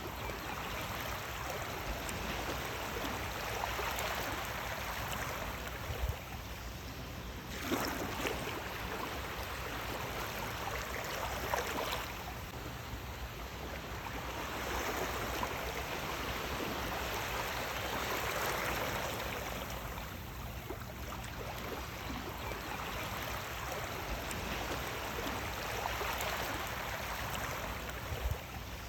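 Sea waves washing onto the shore: a continuous rush of water that swells and ebbs every few seconds.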